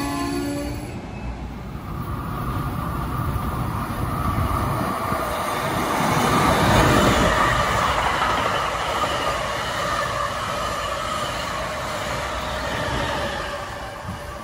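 Passenger train passing on the line, a heavy rumble of wheels on rail that builds to its loudest about seven seconds in and then fades.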